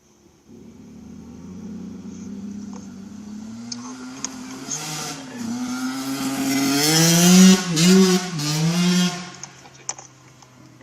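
An 85cc two-stroke dirt bike revving hard as it rides toward the microphone. Its pitch climbs and dips briefly several times as it shifts gears. It is loudest about seven seconds in, then passes and fades quickly.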